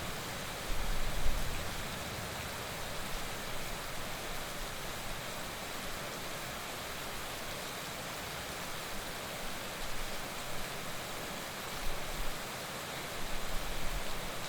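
Heavy rain falling steadily, a dense even hiss, with a few short low rumbles about a second in and again near the end.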